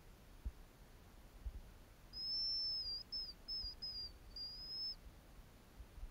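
A songbird singing one thin, high whistled phrase about two seconds in: a longer note followed by several short ones. A few faint low bumps sound underneath.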